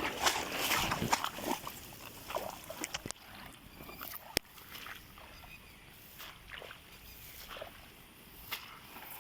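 Shallow water sloshing and splashing, loudest in the first second or so and then quieter, with a sharp click about four seconds in.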